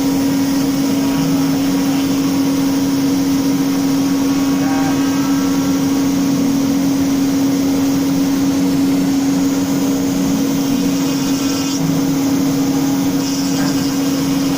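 CNC router spindle running steadily at constant speed while its bit cuts wood, a steady whine over a hiss of cutting.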